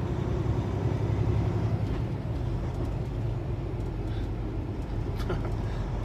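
Kenworth T680 semi-truck's diesel engine running with a steady low rumble while the truck sits in slow traffic. A few faint clicks come about five seconds in.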